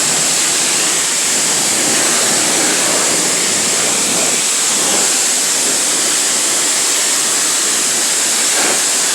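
Self-serve car wash high-pressure rinse wand spraying water onto a car: a steady, loud hiss of spray rinsing the soap off.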